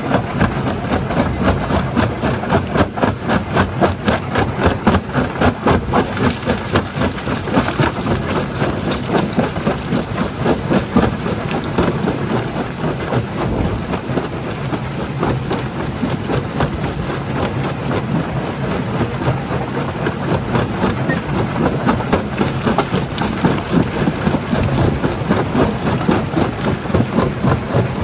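Stone crusher running, a steady heavy machine drone with a dense, continuous clatter and knocking of rock being crushed.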